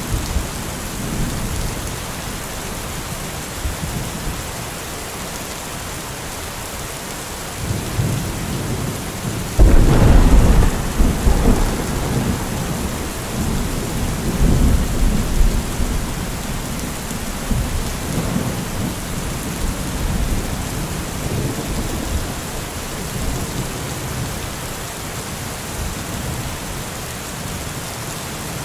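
Heavy rain falling steadily, with a thunderclap breaking sharply about ten seconds in and rumbling away over the next several seconds.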